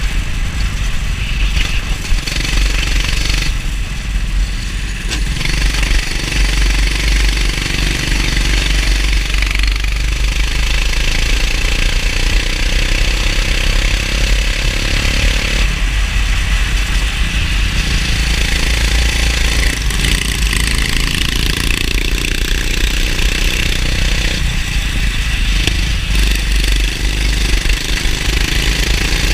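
Go-kart engine running hard on track, its pitch rising and falling with the throttle, over a continuous low rumble.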